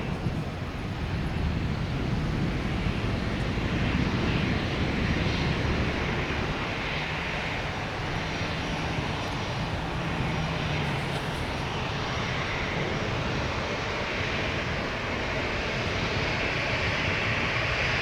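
Jet airliner's engines during a departure climb, a steady rushing noise that holds without a break.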